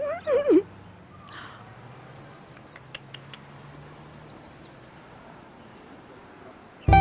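Light, high tinkling chimes with scattered small clinks over a faint hum. A brief pitched sound rises and falls at the very start. Acoustic guitar music comes in suddenly just before the end.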